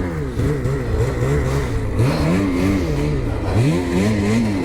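Ski-Doo 850 snowmobile's two-stroke engine on the move, its pitch rising and falling again and again as the throttle is worked on and off.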